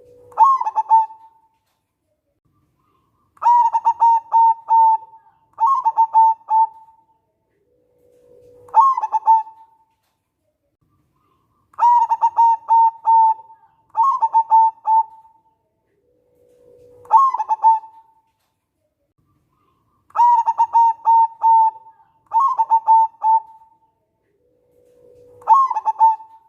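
Zebra dove (perkutut) cooing song, repeated in phrases: each starts with a low held note that jumps into a run of short, clipped coos, followed by two or three more bursts of coos. The phrase comes round about every eight seconds, three times.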